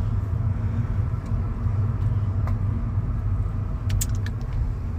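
Vehicle engine running with a steady low rumble, with a few sharp clicks about four seconds in.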